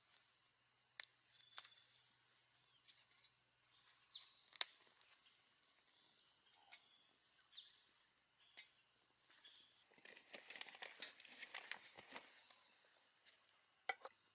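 A bird calling twice, a few seconds apart, each a short call sliding down in pitch. There are a few faint sharp clicks, and a brief scratchy rustle near the end.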